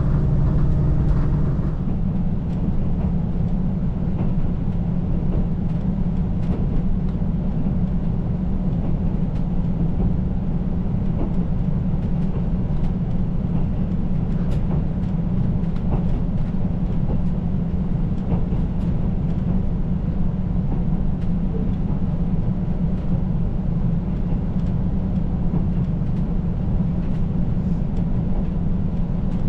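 KiHa 185 series diesel railcar running at speed: a steady rumble of the engine and wheels on the rails, with scattered light clicks. A steady pitched engine drone at the start stops about two seconds in.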